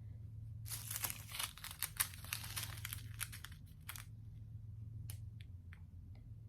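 Small plastic bags of diamond-painting drills crinkling as they are handled and sorted. The crinkling is dense for about three seconds, then thins to a few scattered ticks.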